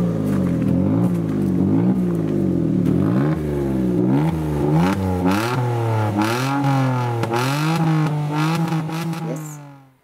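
Peugeot 107's engine revving up and down over and over, its exhaust pipe holed so that it sounds like a rally car. The sound cuts off just before the end.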